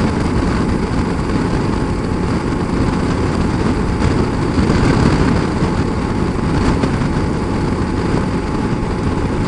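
Motorcycle cruising at highway speed: a steady engine and loud wind rush on the rider's microphone.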